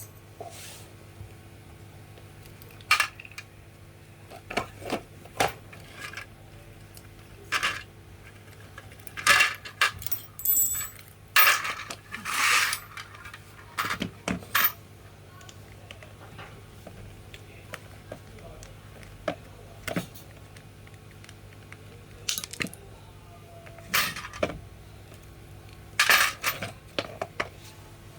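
Small metal parts and tools being handled and set down: scattered clinks, knocks and short clatters over a low steady hum.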